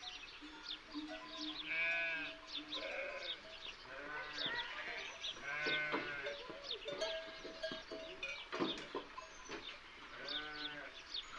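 A flock of livestock bleating: several separate drawn-out bleats, with small birds chirping throughout.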